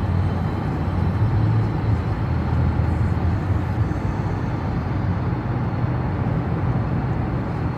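Steady low hum of a car's engine and tyres heard from inside the moving car, with an even rushing noise and no distinct events.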